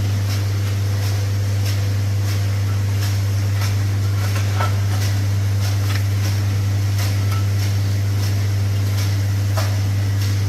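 A motor or engine running at a steady low pitch, with a light regular click about every two-thirds of a second.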